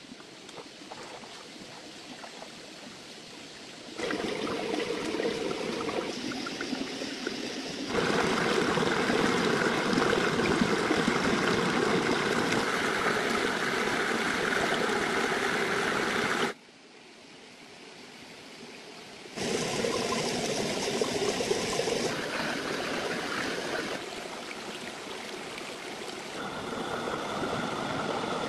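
Running water, steady and rushing, heard across several edited shots that change its loudness suddenly, with one brief quieter stretch just past the middle.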